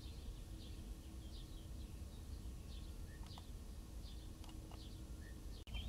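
Faint background birdsong: short high chirps every half second or so over a low steady hum, with a quick run of repeated chirps near the end.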